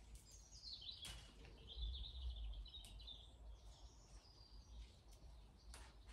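Faint songbird chirping and twittering, high-pitched, starting with a falling note about half a second in and fading out about three and a half seconds in. A few light clicks come while tomatoes are picked.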